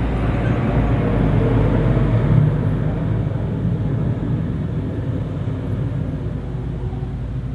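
Heavy road vehicle's engine running close by: a low, steady drone that slowly fades in the second half.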